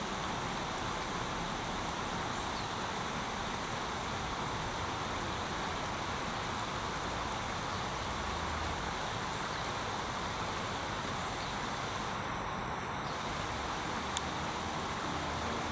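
Steady rushing of river water pouring over a weir, swollen after rain. One sharp click comes near the end.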